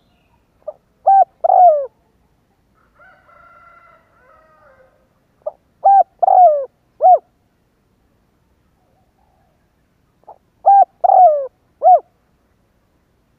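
A spotted dove cooing, three phrases about five seconds apart. Each phrase is a short soft note, then two or three loud coos, the longest one sliding down at its end.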